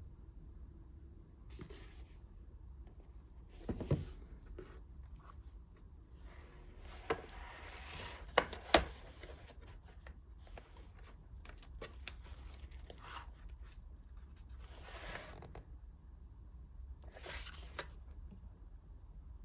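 Close-up handling of knitting materials: short bursts of rustling and scraping every few seconds, with a couple of sharp clicks about halfway through.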